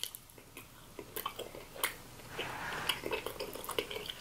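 Close-miked chewing of a mochi ice cream ball, heard as scattered soft mouth clicks.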